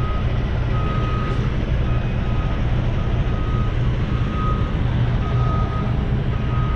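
A reversing alarm beeping about once a second, each beep about half a second long, over the steady low running of a semi truck's diesel engine.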